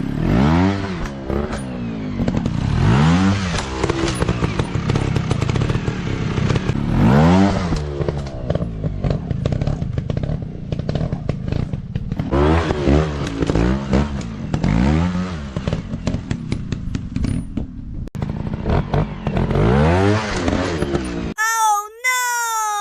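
Dirt bike engines revving up and down again and again, the pitch rising and falling every second or two, with clattering over loose ground. About a second and a half before the end it cuts to a clean tone sliding downward.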